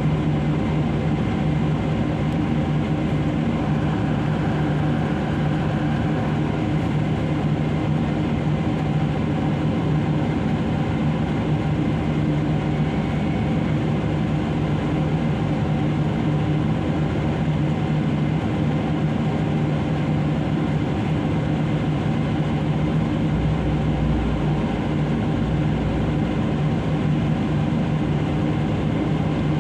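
Heavy diesel engines of a mining excavator and dump truck running steadily during loading, a continuous low drone with a deeper rumble swelling briefly about three quarters of the way through.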